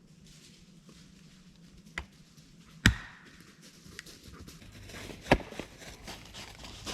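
A blade chopping into wood in a few separate sharp strikes at an uneven pace, the loudest about three seconds in, with a lighter knock between them.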